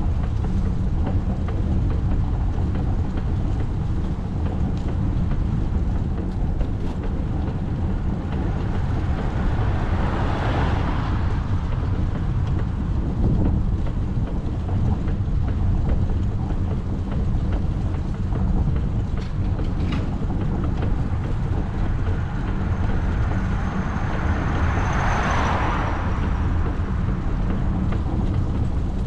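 Steady low rumble of road and wind noise from a moving bicycle, with two passing cars swelling and fading, one about ten seconds in and one near the end.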